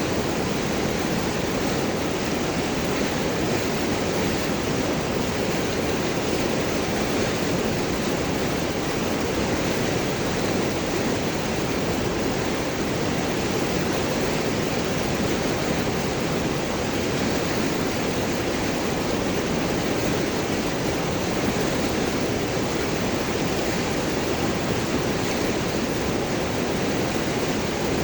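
River water flowing and gurgling over large rocks, a steady rushing wash.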